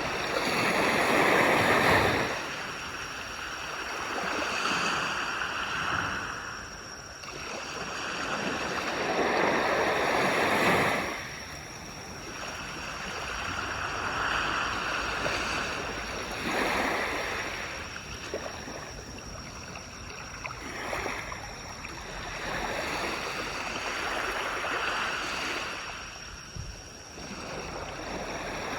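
Small waves breaking and washing up on a shore, swelling and fading every few seconds, the biggest surges near the start and about ten seconds in.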